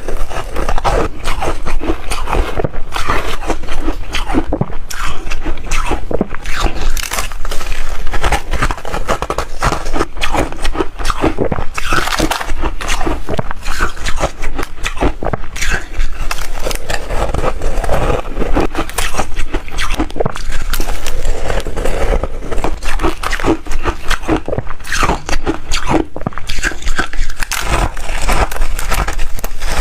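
A person chewing reshaved freezer ice, with rapid, continuous crunching.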